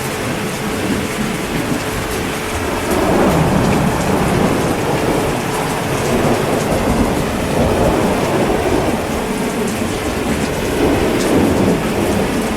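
Heavy rain falling steadily, with rolling thunder swelling in about three seconds in and again near the end.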